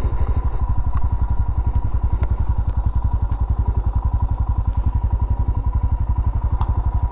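Royal Enfield Himalayan's single-cylinder engine idling, a steady, even, rapid thudding pulse that holds the same pace throughout.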